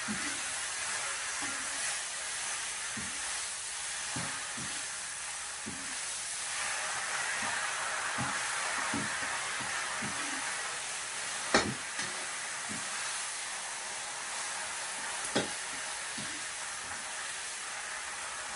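Roselle leaves sizzling as they are stir-fried in a wok, with a spatula scraping and knocking against the pan every second or so. There are two sharper clinks, about two-thirds of the way through and again a few seconds later.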